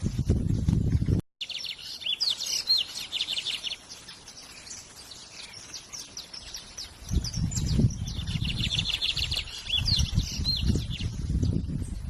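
A songbird singing in two spells of rapid, high chattering notes mixed with quick up-sweeping whistles, the first starting about a second and a half in, the second after about eight seconds. A low rumble comes and goes underneath, with a brief dropout just after the first second.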